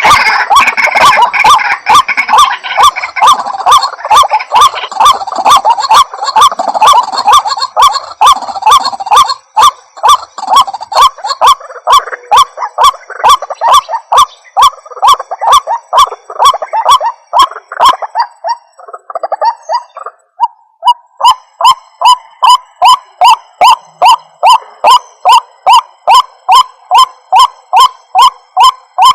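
White-breasted waterhen calling: a long run of repeated, evenly spaced notes, about three a second. In the first half the notes are crowded and overlapping. After a short break about two-thirds of the way in, the series resumes clean and steady.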